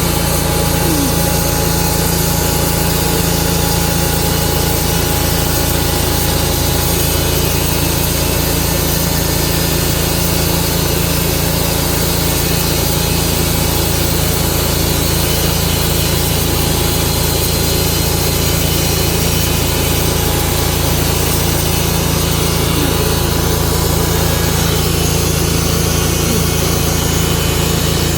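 Tru-Cut sawmill running steadily, its engine droning and the blade cutting through a Tree of Heaven log.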